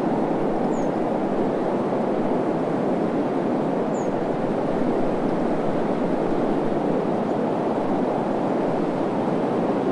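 Steady desert wind rushing evenly without gusts, with two faint short high chirps, about a second in and again about four seconds in.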